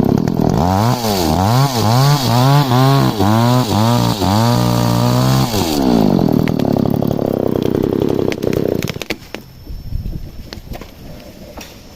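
Chainsaw engine revved up and down about ten times in quick succession, then dropping back to a steady idle before cutting off about nine seconds in. After that come a few sharp knocks over a low rushing background.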